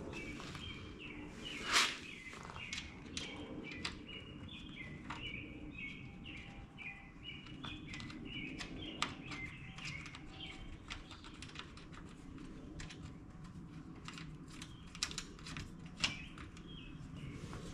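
Birds chirping busily for most of the first ten seconds, with scattered light clicks and taps throughout and one sharper click about two seconds in.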